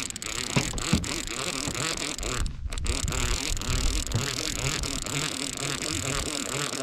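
Steady engine and water noise aboard a fishing boat, with fine rapid ticking like a fishing reel's ratchet.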